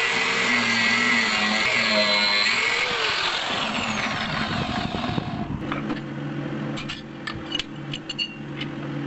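Power tool grinding steel, a dense steady noise that stops about five and a half seconds in. Then come a series of light metallic clinks over a low steady hum.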